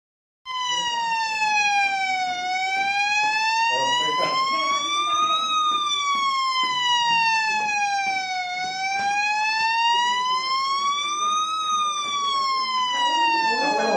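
Electronic alarm siren wailing, its pitch sliding slowly down and up in a cycle of about six seconds, then cutting off abruptly. It is the alarm signal for an earthquake drill.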